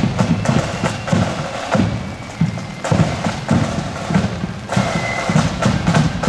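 Marching band drums beating out a march: sharp snare strokes over bass drum thumps, with little melody audible.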